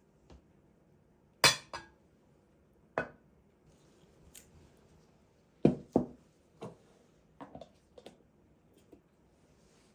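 Dishes and kitchenware clinking and knocking together as they are handled, in about a dozen separate knocks. The loudest come about one and a half seconds in and again around six seconds.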